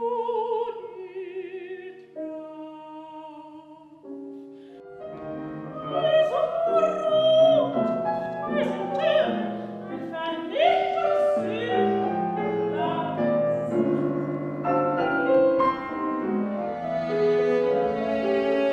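Operatic singing with piano accompaniment. For the first four seconds a single voice holds long notes with vibrato; from about five seconds the music grows louder and fuller, with quick-moving notes.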